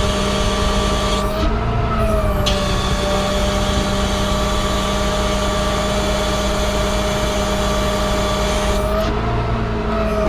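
Bucket truck's Cummins diesel engine running steadily with a steady whine while the hydraulic boom is operated. Its pitch briefly rises and settles back twice: about a second and a half in, and again near the end.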